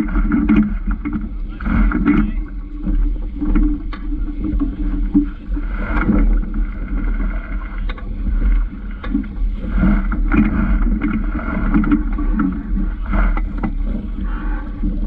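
Small Vaucluse Junior sailing dinghy drifting in light wind: uneven swishing surges every second or two over a steady low wind rumble on the microphone.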